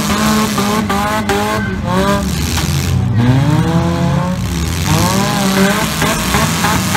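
Several demolition derby cars revving hard at once, their engine notes rising and falling as they accelerate and spin their wheels, with a few sharp knocks from the collisions about a second in.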